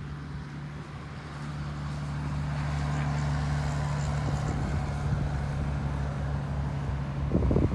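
A motor engine running with a steady hum, growing louder over the first few seconds. Wind buffets the microphone near the end.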